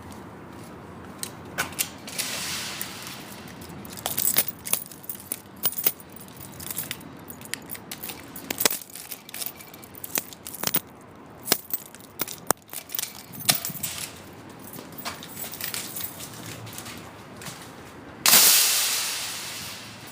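Keys jangling, and small hard objects clicking and knocking as they are handled. Near the end a loud rushing whoosh starts suddenly and fades over about two seconds.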